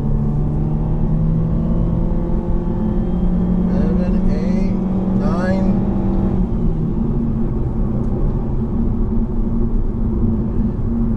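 Cabin sound of a 2013 Nissan Juke Nismo's turbocharged 1.6-litre four-cylinder engine, with road noise, during a 0-60 mph acceleration run in all-wheel-drive mode. The engine drones steadily and its note changes a little past halfway.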